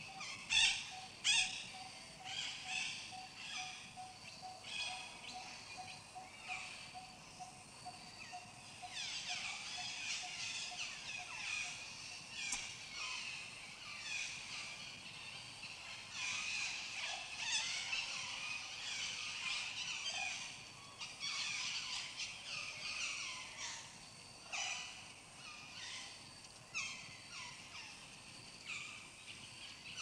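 Wild birds chirping and calling outdoors, a busy mix of short tweets and quick falling notes, busiest in the middle stretch. Two loud, sharp notes stand out near the start.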